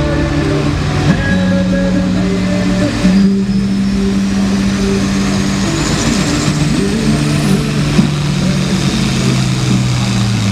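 Modified International 966 pulling tractor's engine running hard at high revs under the load of a pull, its pitch shifting as the run goes on, with a thin high whine climbing steadily through the middle.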